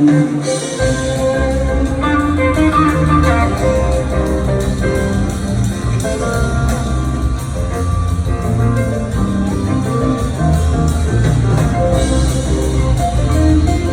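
Live rock band playing an instrumental jam: guitar over bass and drums, with the bass and kick coming in heavily about a second in.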